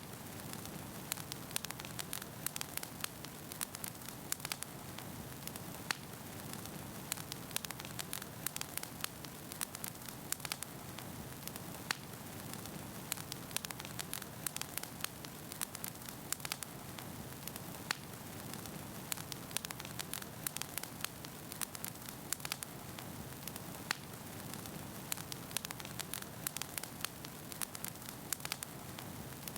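Wood fire burning in a fireplace: a steady low rush of flame with frequent, irregular sharp crackles and pops from the burning logs.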